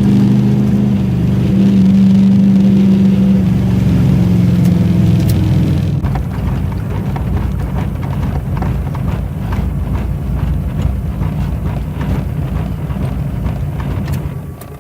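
Ford 302 V8 running with a steady note, then from about six seconds in a rougher running with a regular knocking several times a second; the sound drops away sharply near the end. The owner is unsure what the knock is, fears a rod and suspects a rocker.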